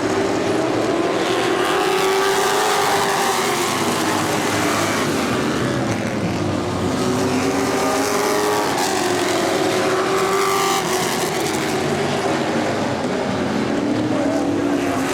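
Several street stock race cars running together, their engines overlapping, with the pitch dropping and climbing again a couple of times as they lift and get back on the throttle.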